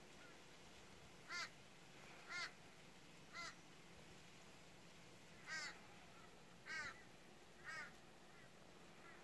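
A bird calling outdoors: six short calls in two sets of three, about a second apart, over a faint steady hiss.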